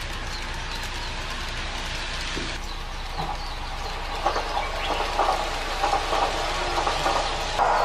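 A passing train's wheels clicking and clattering over rail joints, growing louder from about four seconds in, over a steady hiss. Birds chirp in the first half.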